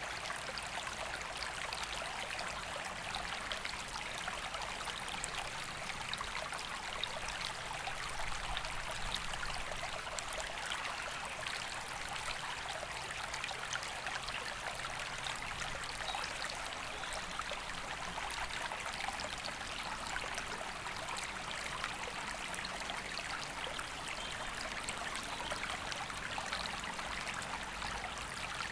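River water flowing steadily: an even rushing with a trickling, splashing texture and no breaks.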